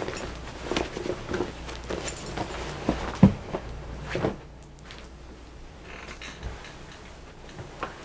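A man undressing and getting into bed: clothes rustling with a series of small knocks and one sharp thump a little past three seconds in, then softer rustling of the bedcovers.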